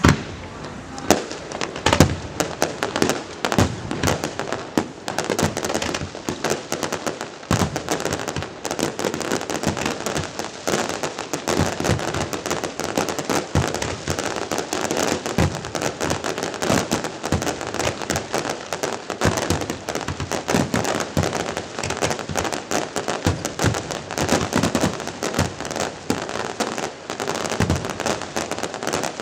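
Aerial fireworks going off in a dense, continuous crackle of many small pops, with a few louder bangs in the first couple of seconds.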